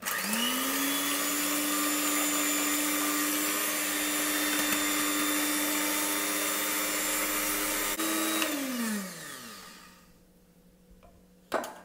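Electric hand mixer whisking raw eggs in a glass bowl: the motor starts with a quick rise in pitch, runs at a steady whine, then is switched off about eight and a half seconds in and spins down with a falling pitch. A short knock comes near the end.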